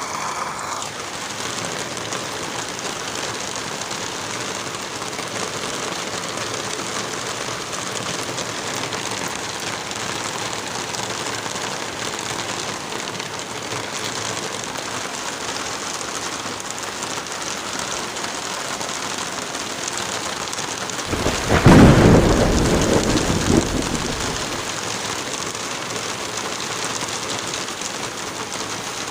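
Steady hiss of light rain and wind in a forest. About three-quarters of the way through, a deep rumble swells and dies away over about three seconds.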